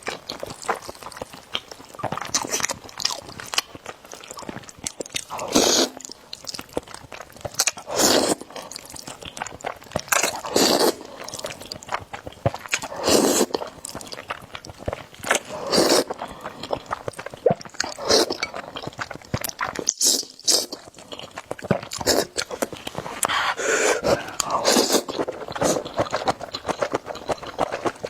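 Close-miked eating of spicy noodles: continuous wet chewing clicks, with a louder burst of slurping or biting every two to three seconds.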